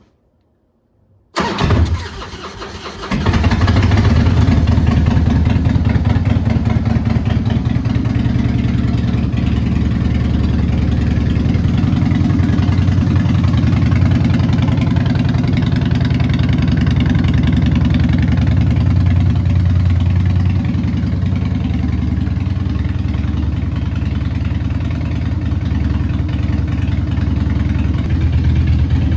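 2003 Harley-Davidson Softail Deuce's Twin Cam 88B V-twin being started: the electric starter cranks about a second and a half in, the engine catches about a second later, and it then idles steadily.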